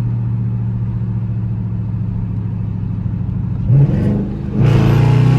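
Dodge Charger with a Hellcat exhaust, heard from inside the cabin: a steady low drone while cruising, a short blip of the throttle near four seconds, then, about a second before the end, the engine goes to hard acceleration and gets louder, its pitch climbing.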